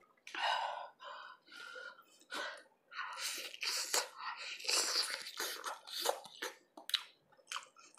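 A person eating lobster close to the microphone: a string of short, irregular chewing and mouth noises.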